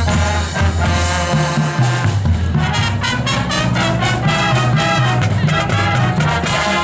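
Marching band playing a loud brass-led passage: trumpets and trombones over a moving low brass line, with marching percussion.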